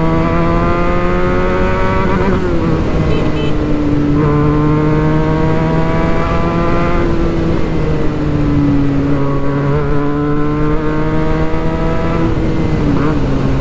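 Benelli 302S's 300cc parallel-twin engine through a Yoshimura exhaust, pulling on the highway. The engine note climbs steadily, then drops as the rider shifts gear, about three times. The exhaust is loud but smooth.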